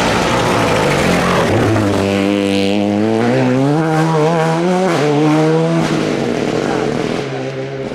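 Rally car engine revving hard past the spectators: the revs dip about two seconds in and then climb steadily, drop at a gear change about five seconds in and climb again, and the sound fades near the end.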